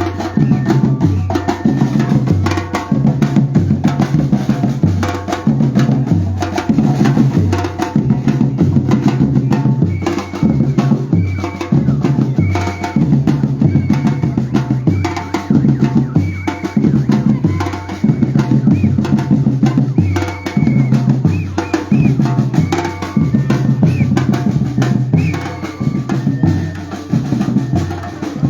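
Batucada percussion group playing a steady, driving rhythm: deep bass drums alternate between two pitches under snare drums and other hand percussion.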